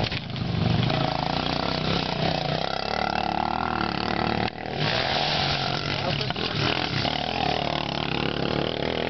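Motocross bike engines revving, their pitch rising and falling as they accelerate and shift, with a brief dip about four and a half seconds in.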